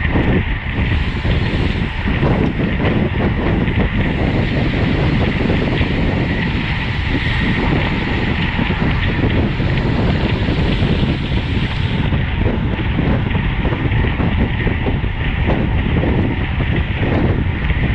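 Wind rushing over the microphone of a camera on a road bike ridden at race speed: a loud, steady roar of noise.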